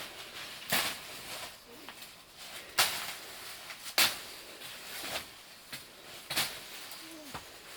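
Five sharp knocks or taps, roughly a second apart, with faint short animal calls between them.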